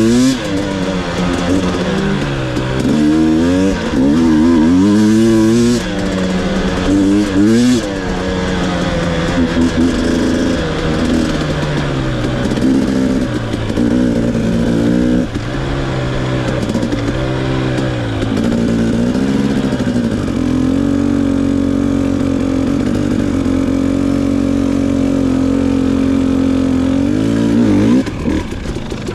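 Two-stroke dirt bike engine under riding, revving up and down repeatedly as the throttle is opened and closed through the gears. It then holds a steady pitch at constant throttle for the last several seconds, dropping off near the end.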